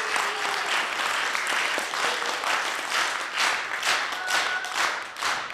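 Audience applauding after a song. About halfway through, the scattered clapping falls into a steady rhythm of about two claps a second.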